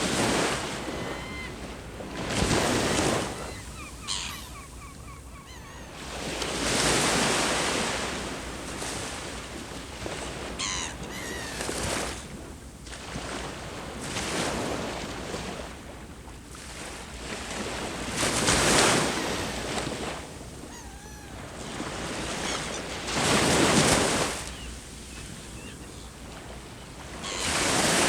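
Ocean surf breaking on the shore, each wave swelling and washing back about every four to five seconds, over a steady hiss of the sea.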